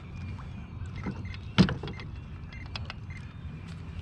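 Knocks and clicks of fishing gear handled in a boat: a few light clicks and one sharp knock about one and a half seconds in, over a low steady rumble.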